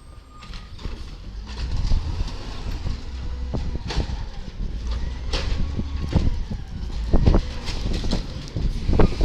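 Garbage truck engine revving hard, the rumble building about a second in and growing louder again near the end, with repeated sharp metallic clanks and knocks throughout.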